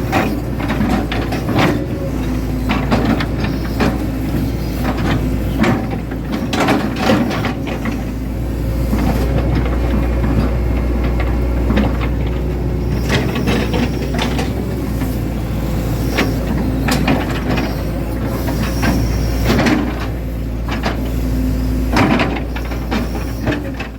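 Hitachi Zaxis 110 excavator's diesel engine running steadily, with frequent knocks and clanks from its working gear.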